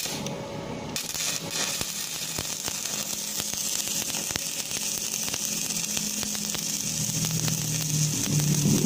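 Electric arc welding on a steel chainsaw bar plate: a steady crackling sizzle with dense small pops, starting about a second in. A low engine hum rises near the end.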